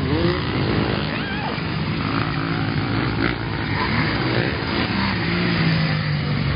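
Motocross motorcycle engines running at a dirt track, a continuous dense engine din with a few short rises and falls in pitch.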